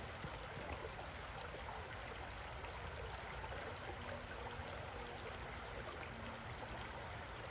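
A small river flowing, a steady even rush of water.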